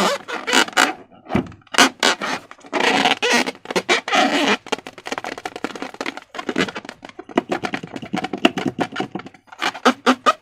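Slime being squished and pulled by hand, giving a quick, irregular run of wet clicks and crackles, with a denser, noisier squelch a few seconds in.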